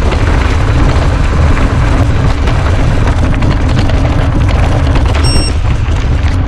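Wind buffeting the microphone over the constant rattle and clatter of a mountain bike riding fast over rough ground. A short, high beep sounds about five seconds in.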